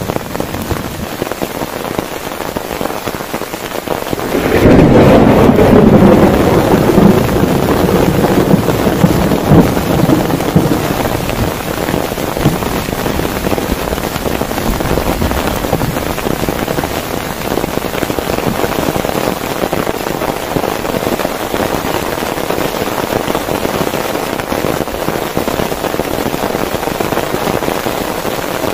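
Heavy rain falling steadily on a tent. A clap of thunder breaks about four and a half seconds in, loud for a couple of seconds, then rumbles away over several more while the rain keeps on.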